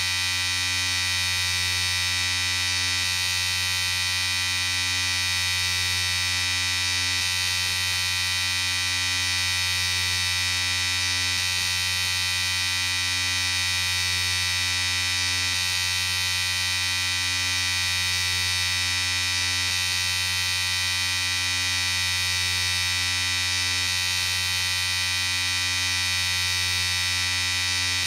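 Electric shaver running steadily, a continuous buzz with a strong low hum.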